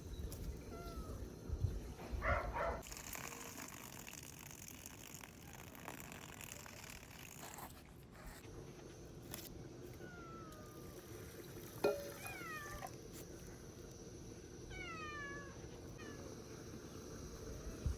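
An animal calling faintly, most likely a cat meowing: short cries that fall in pitch, one by one and then a few in quick succession later on. A sharp knock about twelve seconds in.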